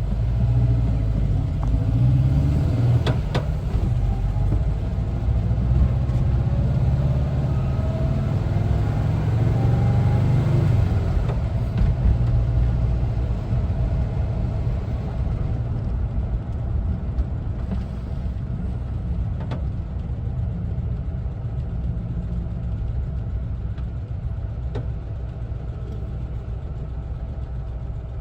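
Air-cooled Volkswagen Type 4 flat-four engine of a 1974 Westfalia camper bus driving. It rises in pitch over the first ten seconds or so as it accelerates, then settles into a steadier, slightly quieter cruise with a low rumble.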